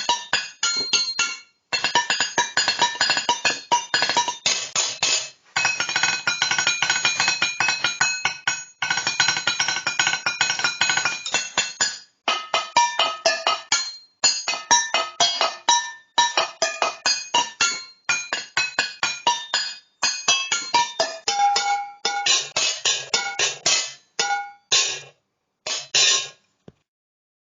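Metal cans struck rapidly as percussion, each hit ringing at one of a few fixed pitches, played in phrases with short breaks every couple of seconds. The playing stops about a second before the end.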